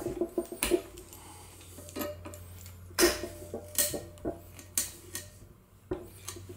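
Locking pliers clamped on a heated, wax-lubricated seized exhaust manifold stud being worked back and forth: a series of sharp metal clicks and clinks, about half a dozen, as the stud starts to turn in the cast iron manifold.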